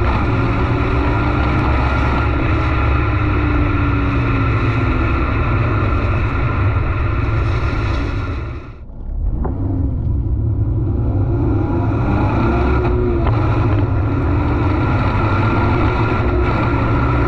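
2023 Subaru BRZ 2.4 with its stock exhaust, the 2.4-litre flat-four running loudly, its pitch rising and falling with the revs. About halfway through the sound drops away sharply for about a second, then picks up again.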